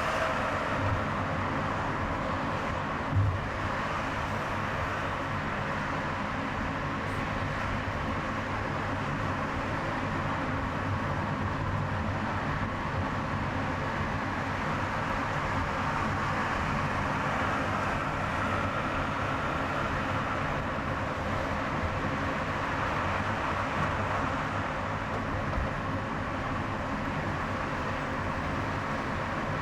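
Steady car engine and tyre noise of a car driving on a highway, with a brief low thump about three seconds in.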